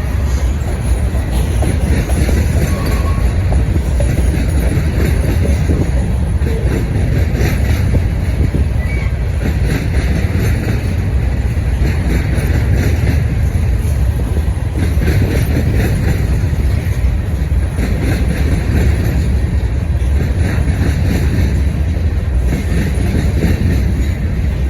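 Cars of a mixed freight train rolling past: a steady loud rumble of wheels on rail, swelling and easing every few seconds as cars and trucks go by.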